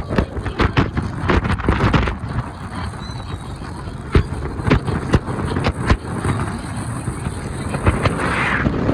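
Sightseeing boat's engine running, with wind on the microphone and scattered short knocks and clicks throughout.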